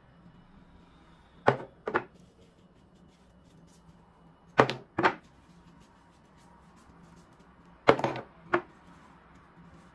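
Sharp knocks of kitchen storage containers being handled and set down, coming in pairs about half a second apart, three times.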